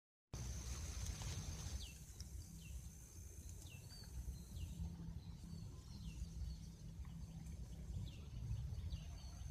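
Faint bird chirps: short, down-sweeping calls that repeat irregularly from about two seconds in. Under them sit a low rumble and a thin, steady high tone.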